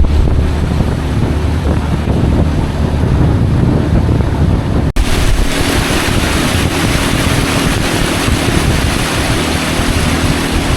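Dorokyo Gorge jet boat's engine running steadily under way, with wind buffeting the microphone and the rush of water. About five seconds in the sound drops out for a moment, and after that the hiss of wind and water is stronger.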